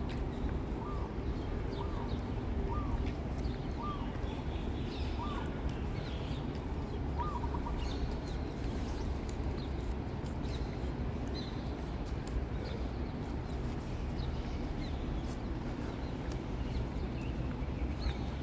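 Outdoor birds calling: a short chirp repeated roughly once a second through the first several seconds, with higher, thinner chirps scattered throughout, over a steady low background rumble.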